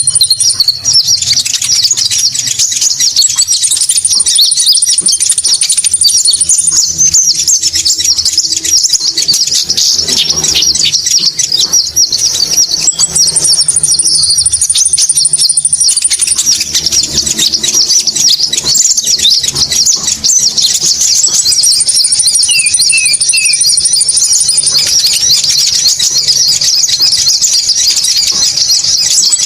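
Bird-lure recording for the konin: dense, rapid high-pitched chirping and twittering of small birds without a break, with a thin, steady high trill coming in and out every several seconds.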